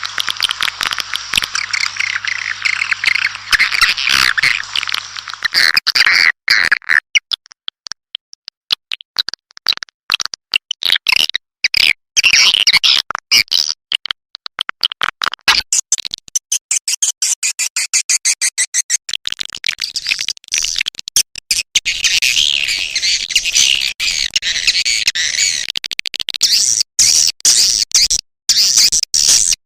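Edible-nest swiftlets chirping and chattering in a dense, high-pitched flock chorus, played as a lure call recording meant to draw swiftlets into a nest house. Continuous at first, the chatter breaks into rapid stuttering chirps with brief gaps through the middle, then thickens again near the end.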